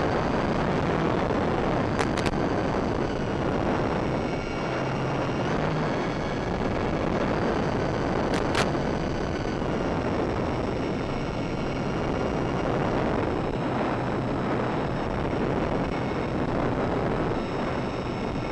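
Electric motors and propellers of a Durafly Tundra RC plane whining at several steady pitches that drift slightly, buried in heavy wind rush. Two pairs of sharp clicks sound about 2 seconds and 8 seconds in.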